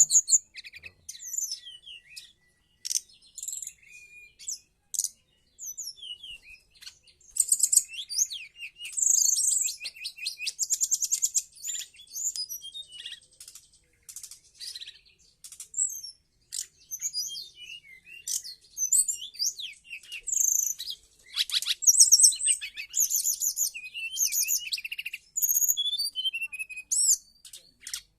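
Brown-chested jungle flycatcher (SRDC) singing: a long, varied run of high-pitched chirps, fast trills and gliding whistled notes in short phrases separated by brief pauses.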